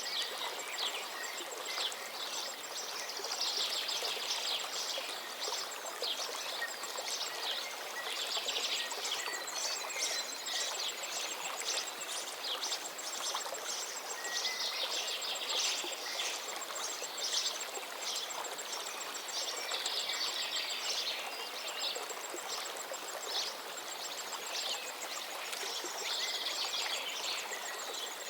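Steady rush of a flowing river, with songbirds singing rapid high trills in phrases that come every few seconds.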